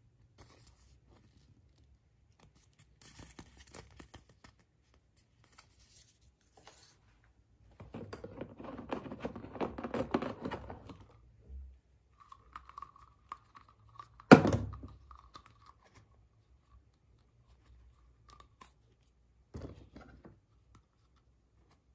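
Wrapping being torn and crinkled by hand in a small room, in short crackly spells with a long, dense stretch of tearing near the middle. A single sharp knock stands out about two-thirds of the way through.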